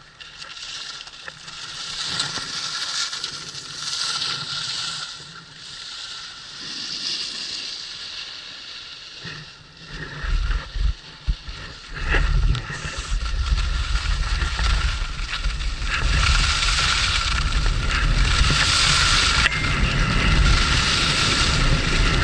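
Skis scraping and hissing over snow through a series of turns, the hiss swelling with each turn. From about ten seconds in, wind buffets the action camera's microphone heavily.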